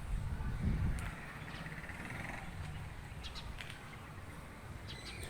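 A few short bird chirps over a steady low rumble, the chirps starting about three seconds in and coming again near the end.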